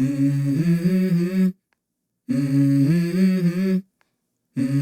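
A voice humming the same short melodic phrase three times, each about a second and a half long, with sudden dead silence between the repeats: the vocal intro of a song.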